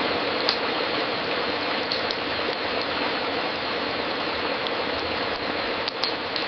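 Wood fire crackling in a fireplace: a steady hiss with a few sharp pops, two of them close together near the end.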